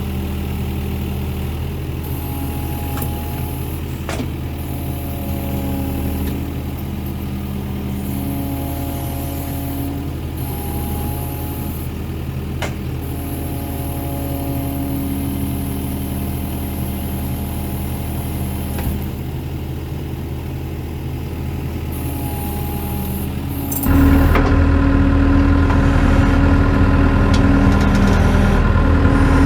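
Skid steer engine running steadily, with higher tones that come and go over it. About 24 seconds in it steps up suddenly to a louder, fuller run as the machine works against the tractor tire to break the bead.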